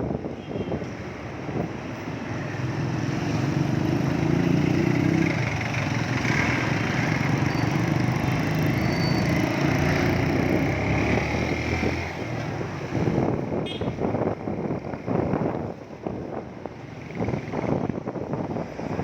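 Motorcycle engine running with wind buffeting the microphone. The engine is loudest through the first two-thirds, then drops away, leaving gusty wind noise near the end.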